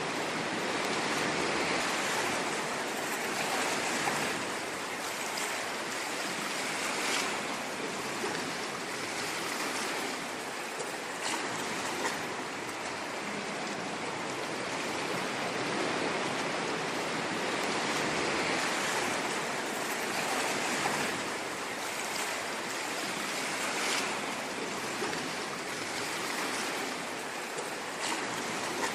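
Ocean waves washing on a shore in a continuous hiss, swelling and easing every few seconds, with light crackles of water.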